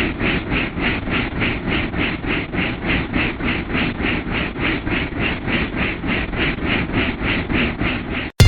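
Steady mechanical noise pulsing evenly about four times a second, with a low rumble under it, cutting off abruptly near the end.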